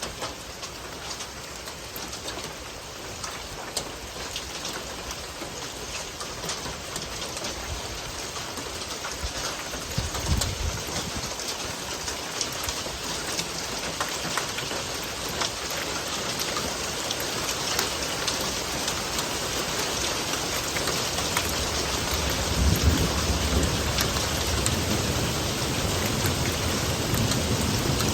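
Steady rain falling and slowly growing heavier, with single drops tapping close by. Low rumbles of thunder come about a third of the way in and again, longer and louder, near the end.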